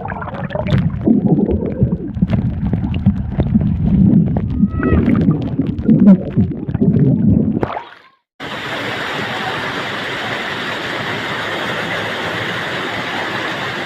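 Water sloshing and gurgling close to the microphone, with scattered knocks. After a sudden cut it is followed by a steady, even rushing noise.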